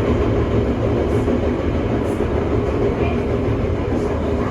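Toei 5300 series commuter train running at speed, heard from on board a motor car: a steady, dense rumble of wheels and traction motors, with faint steady tones above it.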